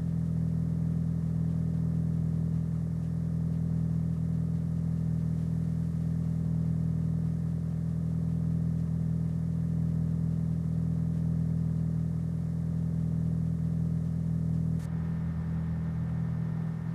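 Car engine sound in a driving video game, a steady low engine hum held at a constant speed, with a slight change in tone near the end.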